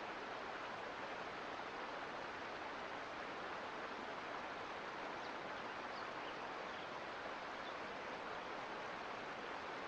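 Mountain creek flowing: a steady rush of running water.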